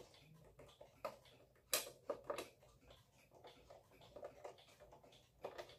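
Faint, irregular clicks and light taps of tools and small metal parts being handled while a wall clock's movement is taken apart, with the sharpest click a little under two seconds in.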